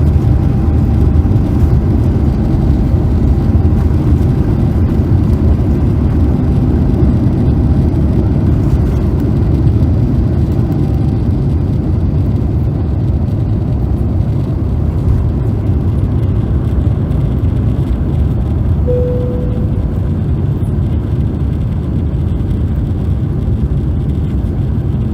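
Cabin noise of an Airbus A350-900 climbing just after take-off: its two Rolls-Royce Trent XWB engines at climb power make a loud, steady low rumble mixed with airflow noise. A short single tone sounds about three-quarters of the way through.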